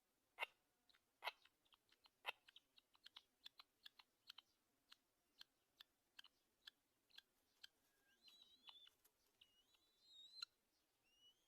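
A run of sharp, irregular clicks and snaps, typical of a black-winged kite's bill working at prey. From about eight seconds in come several short, thin, rising squeaky calls.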